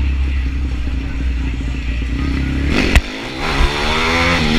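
Pitbike engine revving as a bike rides past, its pitch climbing and falling, starting about three seconds in right after a sharp knock. Before that, a steady low rumble.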